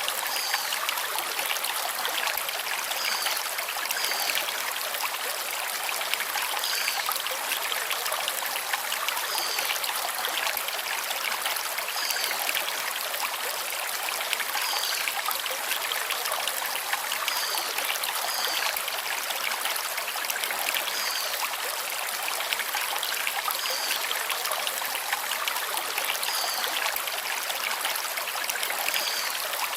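Forest stream running over stones, a steady rushing trickle. A bird repeats a short high call every two to three seconds.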